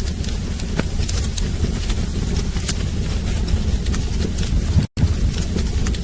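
Wood fire burning in a fireplace: a steady low rumble with scattered sharp crackles and pops. The sound cuts out completely for an instant about five seconds in.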